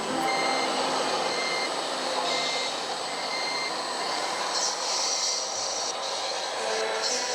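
Reversing beeper on a radio-controlled model truck, a single high beep repeating about once a second, which stops after a few seconds.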